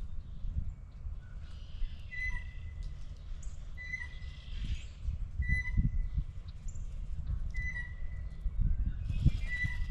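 Birds calling: one short whistled note repeats about every second and a half among scattered higher chirps, over a low rumble with soft knocks close to the microphone.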